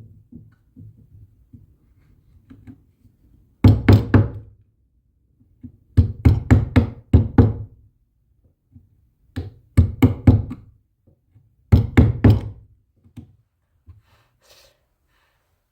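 Sharp knocking in four quick bursts of several strikes each, with pauses of one or two seconds between the bursts.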